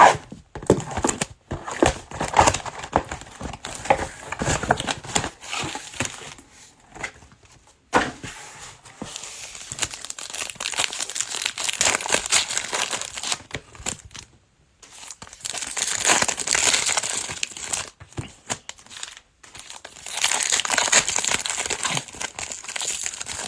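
Plastic wrapping of trading card packs and boxes being torn open and crinkled by hand, in irregular stretches of rustling with short pauses between them.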